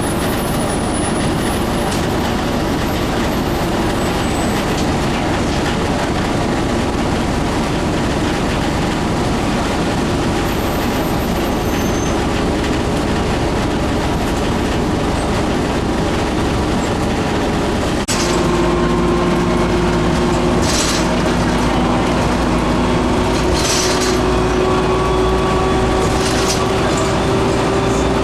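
Steady engine and road noise heard from inside a moving city bus. About two-thirds of the way through, the sound changes abruptly and a steady whine comes in that rises slowly in pitch, with a few brief hisses.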